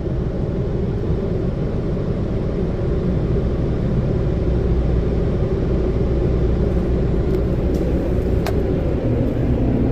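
Car wash tunnel equipment heard from inside the car on the conveyor: a steady low rumble, with a few faint clicks in the second half.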